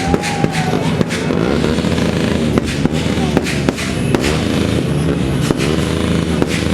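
Fireworks popping and banging irregularly, several times a second, over music.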